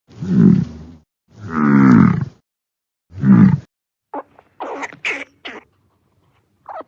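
Cow mooing three times in loud, drawn-out calls, followed after about four seconds by several short, quieter, higher-pitched calls.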